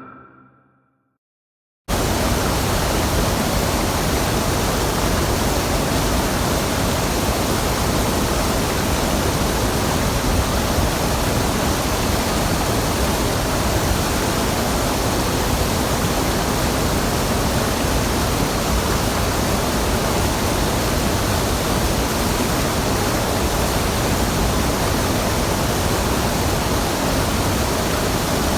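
Waterfall and mountain stream water rushing in a steady, even roar that cuts in abruptly about two seconds in.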